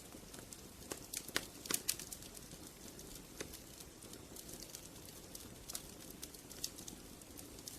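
Wood fire crackling: irregular sharp pops and snaps over a low steady hiss, with a cluster of louder pops between one and two seconds in.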